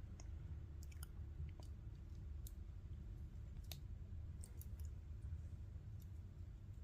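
Lego bricks being handled and pressed together, giving light, irregular plastic clicks, the sharpest a little before four seconds in, over a steady low hum.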